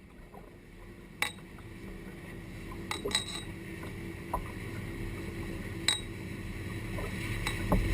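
Scattered sharp clinks, about eight of them at irregular intervals, over a low steady rumble that slowly grows louder.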